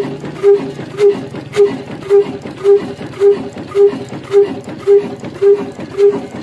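Old desi black engine, a slow-speed single-cylinder stationary diesel, running steadily with an even exhaust beat, a little under two beats a second.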